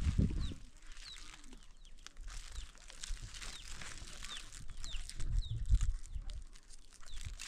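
A small bird chirping over and over: short, high, falling chirps about every half second. A brief low rumble comes a little past the middle.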